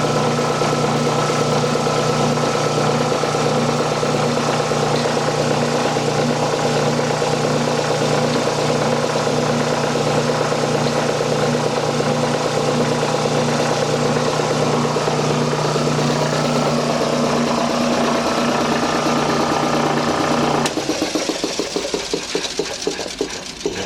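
1940s United States Air Compressor Co. two-stage, two-cylinder air compressor, driven by a 2 hp single-phase electric motor, running steadily with a loud hum and pumping knock. About 20 seconds in, the motor cuts off and the compressor coasts down, its strokes slowing and fading to a stop.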